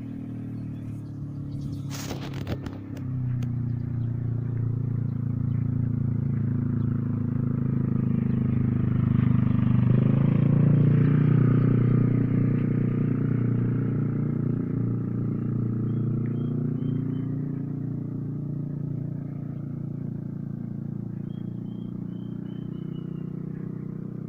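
A motor vehicle's engine drives past, growing louder up to about ten seconds in, where its pitch drops, then slowly fading away. There is a brief clatter about two seconds in, and a bird gives short runs of high chirps twice in the second half.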